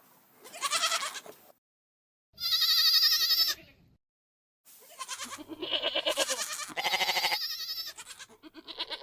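A goat bleating "baaa" in a series of separate calls: a quieter short one, a louder quavering one, then a longer run of bleats, with another call starting near the end.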